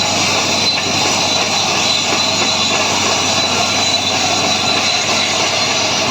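Caterpillar bulldozer running: a loud, steady mechanical noise of engine and machinery with a thin, high steady whine.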